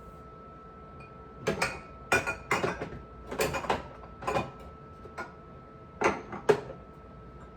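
Containers and dishes clinking and knocking as they are handled and set down, in an irregular series of sharp knocks over about five seconds, with a steady faint hum underneath.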